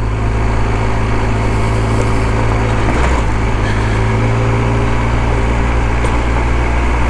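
Motorcycle engine running steadily under load as the bike climbs a rocky dirt track.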